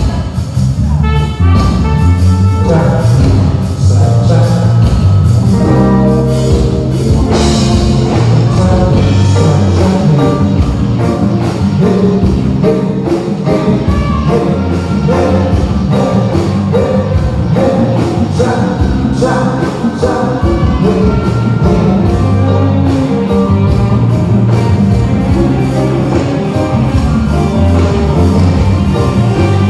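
Live band playing a song at full volume through a PA system during a sound check, with heavy bass and drums under a melody line.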